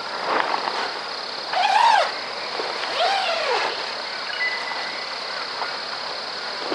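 Outdoor ambience: a steady high-pitched drone with two short calls that rise and fall in pitch, about a second and a half apart, and a faint thin whistle near the middle.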